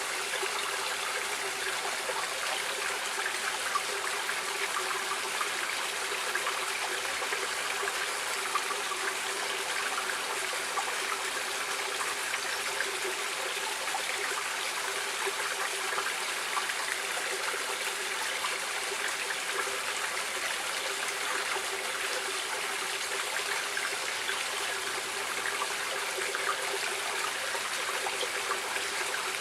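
Running water of a stream, flowing steadily with an even, unbroken rush and fine babbling.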